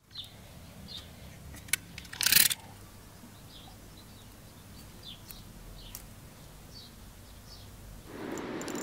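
Small birds chirping now and then outdoors, each call short and falling in pitch, over a low steady hum. A sharp click comes at about 1.7 s, and just after it a brief loud noise about two seconds in stands out as the loudest sound. Near the end a louder steady hiss sets in.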